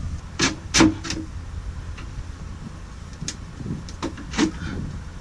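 Air-conditioner condenser coil being slid into its metal track: a few short knocks and scrapes in two groups a few seconds apart.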